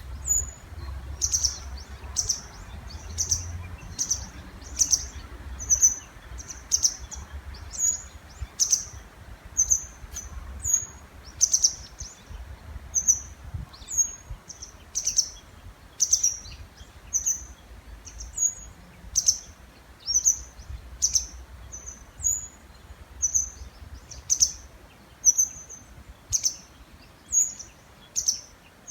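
Small birds calling back and forth in the breeding season: short, high, sharp chirps repeated about once or twice a second, in at least two slightly different call types, alternating.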